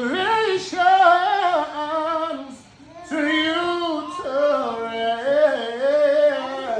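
A man singing unaccompanied, with held, sliding notes in two phrases and a short breath between them about two and a half seconds in.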